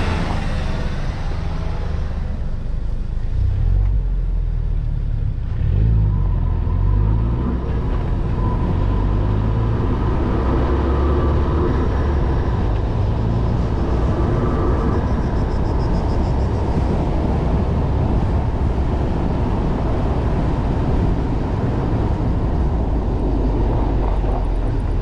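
Ford Focus RS Mk3's turbocharged 2.3-litre four-cylinder engine running under way, a low rumble with rising and falling revs a few seconds in, then settling into a steady drone. An oncoming car towing a trailer passes at the very start.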